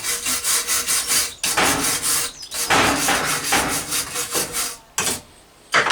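Quick back-and-forth hand scraping on the forged steel hook, several strokes a second in a few spells, stopping about five seconds in, like filing or wire-brushing the finished hook.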